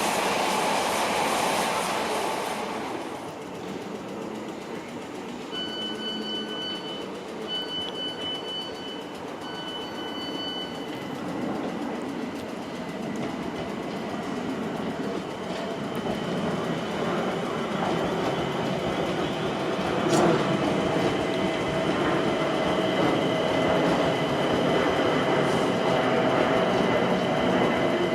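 Electric train sounds at a station platform. A train's rumble fades in the first few seconds, then repeated electronic beeping follows. An electric train's motor whine then sets in and builds, getting louder toward the end.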